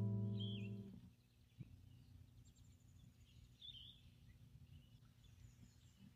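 A held guitar note dies away in the first second, leaving faint outdoor ambience with a low steady hum and a few short bird chirps.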